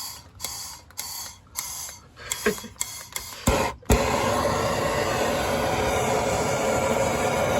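Handheld gas torch being lit: a few short hissing bursts and clicks, then a pop as it catches a little under four seconds in, followed by the flame's steady hiss. It is being used to heat a seized differential cover that won't budge.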